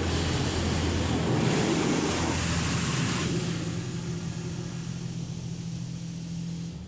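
Touch-free car wash gantry heard from inside the car: a steady pump hum with high-pressure water spray hissing against the car for about two seconds early on, then easing off. The hum stops suddenly near the end.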